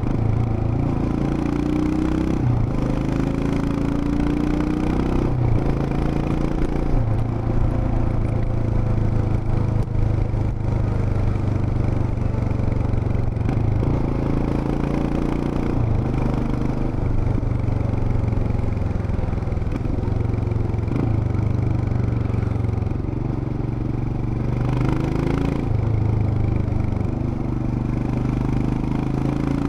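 Royal Enfield Himalayan BS6's 411 cc single-cylinder engine and exhaust while riding, the revs climbing and dropping back several times as it accelerates and shifts gears.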